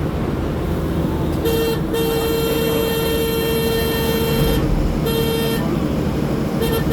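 Vehicle horn honking over the steady rumble of road noise: a short toot, then a long blast of about two and a half seconds, another short toot, and quick short beeps near the end.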